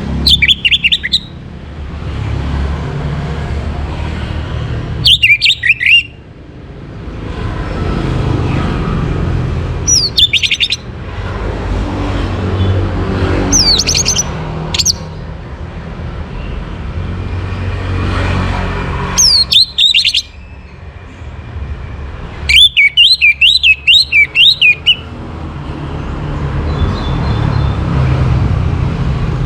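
Orange-headed thrush singing short, loud phrases of quick rising and falling whistles, about six phrases a few seconds apart, the longest near the end. A steady low rumble runs underneath.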